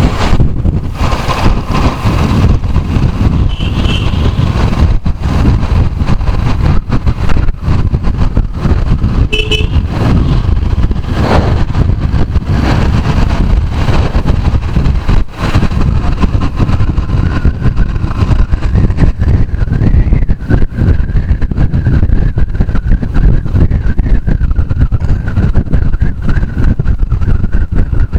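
Vehicle on the move at road speed: dense, buffeting wind noise on the microphone over road and engine rumble. From about two-thirds of the way through, a faint steady whine sits above it.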